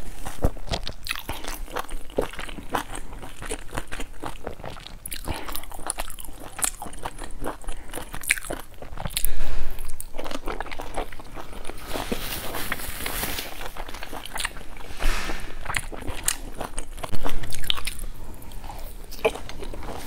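Close-miked wet chewing and biting of dumplings dipped in chili sauce, with steady mouth clicks. There are louder bursts about halfway through and again near the end.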